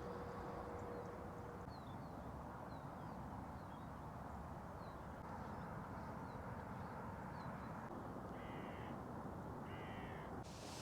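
Two harsh crow caws, about eight and nine and a half seconds in, over a steady background hiss, with short high bird chirps repeating in the first half.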